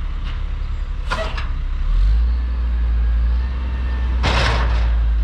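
Low, steady rumble of a heavy vehicle engine, growing louder about two seconds in, with two short hissing bursts: one about a second in and one near the end.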